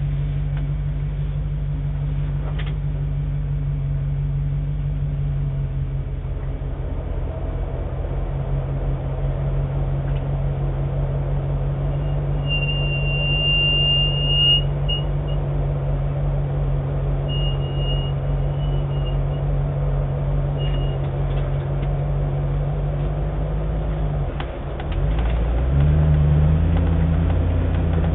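Land Rover Defender engine running steadily at low speed on a dirt trail, heard from inside the cab. Midway a short high squeal sounds twice. Near the end the engine note dips briefly, then comes back higher and louder.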